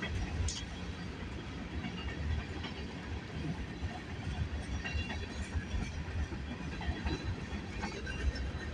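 Freight train cars rolling past: a steady low rumble of steel wheels on the rails with occasional faint clicks.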